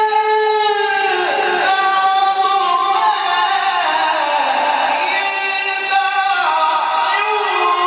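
A Quran reciter's voice in melodic recitation, holding long drawn-out notes that glide down and waver in ornamented turns.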